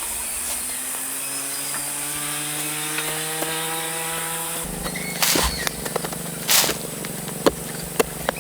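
Chainsaw running, its pitch slowly rising for the first four or five seconds and then holding steady. Two loud bursts of noise and a few sharp knocks come in the second half.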